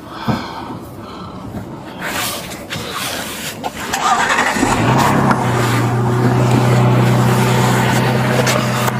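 Clothing rustling and brushing against a body-worn camera during a pat-down. About halfway through, a vehicle engine starts and settles into a steady idling hum that becomes the loudest sound.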